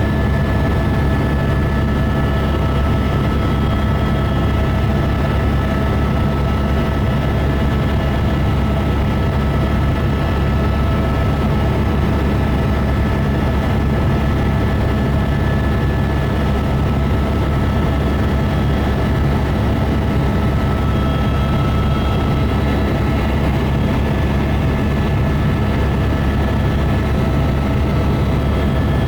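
Helicopter in steady flight: a constant low rotor and engine drone with a steady high turbine whine over it, unchanging throughout.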